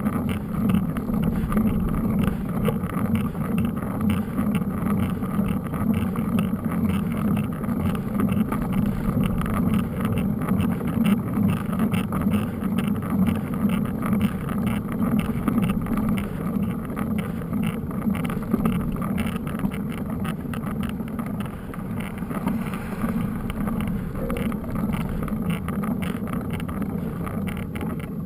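Wind buffeting the microphone of a camera on a moving mountain bike, over a steady low rumble and fast rattling from riding over rough ground.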